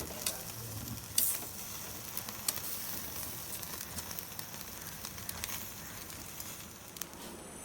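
Marinated chicken pieces sizzling on a grill over a flame: a steady hiss with occasional sharp pops and crackles.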